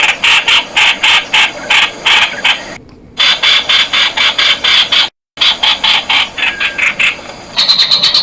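Streak-eared bulbul calling: a fast run of short, harsh chirping notes, about five a second, broken twice by abrupt short pauses.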